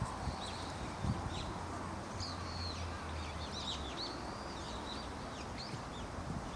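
Birds chirping: a run of short, high chirps and quick whistled glides, with a low hum underneath for the first few seconds.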